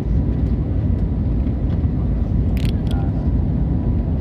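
Airplane taking off: a steady, loud low rumble of jet engine and airframe noise, with a couple of brief clicks about two and a half seconds in.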